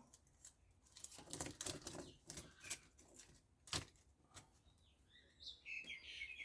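Faint scattered taps and knocks, then small birds chirping in quick short notes from about five and a half seconds in.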